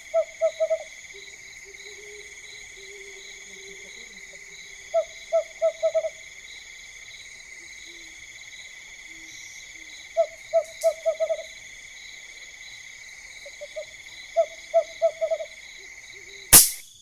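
An owl hooting at night in groups of four or five short, quick notes, a group about every five seconds, over a steady high trill of insects. A sharp click sounds near the end.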